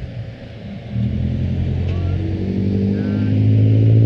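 Kawasaki ZX25R's 250cc inline-four with an Akrapovic exhaust, heard onboard. It runs quieter for about a second, then gets louder as the throttle opens, and the revs climb slowly.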